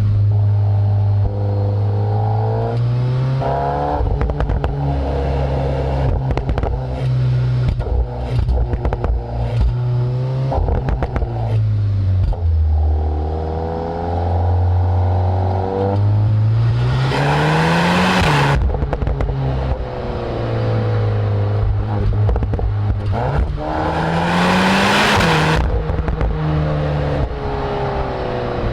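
Volkswagen Golf R 8.5's turbocharged 2.0-litre four-cylinder heard right at its Akrapovic exhaust tips while driving. The note rises and falls through the gears, with two hard full-throttle pulls in the second half that climb in pitch and drop at each upshift. Scattered pops and crackles come off the throttle.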